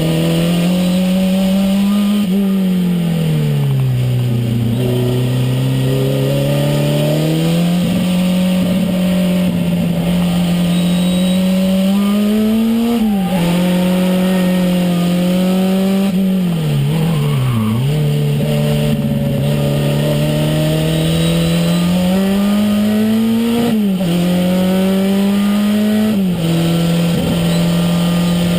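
Renault 5 Turbo's turbocharged four-cylinder engine under way on track, heard from inside the cabin. The engine note climbs steadily and falls sharply at gear changes, about halfway through and twice near the end, with a deeper dip and recovery early on.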